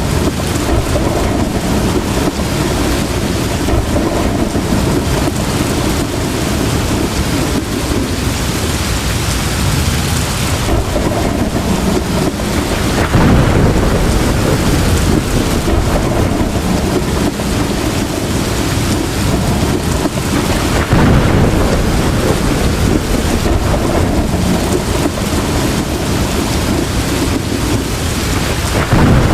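Heavy rain pouring steadily in a thunderstorm, with a few louder swells of thunder partway through.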